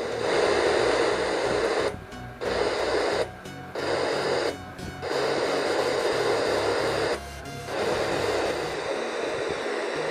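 Static hiss from the Amkette pocket FM radio's small speaker in FM mode, off-station noise. It drops out briefly four times, as when the radio steps between frequencies.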